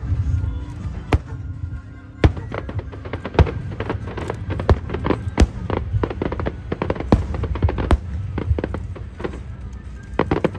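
Aerial fireworks going off: sharp bangs and crackling reports, a few at first and then a rapid, irregular run from about two seconds in, over a low rumble.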